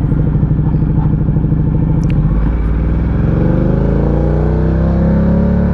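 Ducati Diavel 1260's V-twin engine running on a downhill ride, with a pulsing beat that holds steady and then rises in pitch from about three seconds in as the revs climb. The rider says the bike is running very rich.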